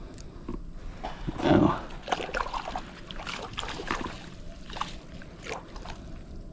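Water splashing with irregular knocks, the loudest splash about a second and a half in.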